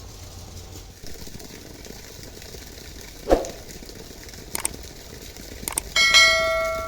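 A dull knock and a few sharp clicks, then near the end a metal object is struck and rings like a bell, fading out over a second or so.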